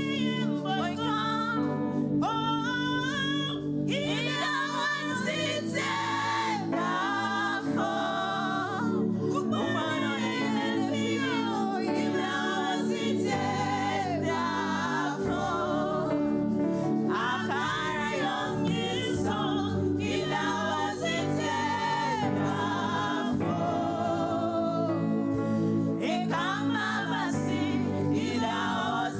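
Gospel choir singing a praise song, voices wavering with vibrato over sustained held chords.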